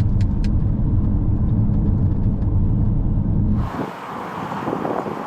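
Road rumble inside a moving vehicle, a steady low drone with a few short ticks at the start. About three and a half seconds in it cuts abruptly to wind buffeting an outdoor microphone, a broad hiss.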